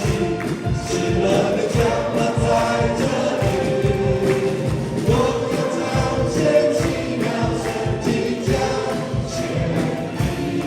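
Worship band music with a steady beat, with voices singing together over it.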